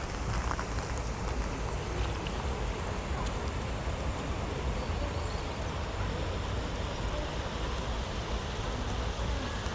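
Steady outdoor background noise on a rainy walk: a low rumble under an even hiss of light rain, with a few faint ticks.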